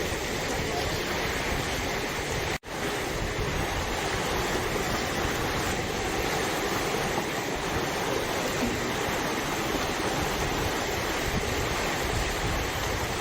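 Swollen river in flood, its water rushing in a steady roar. The sound cuts out briefly about two and a half seconds in, then carries on.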